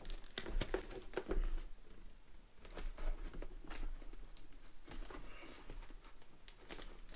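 Hands handling cardboard and plastic toy packaging: irregular light clicks, taps and rustles.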